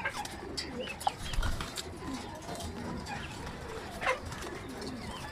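Several domestic racing pigeons cooing over one another in a loft, low rolling calls repeating throughout, with a few short sharp knocks or clicks.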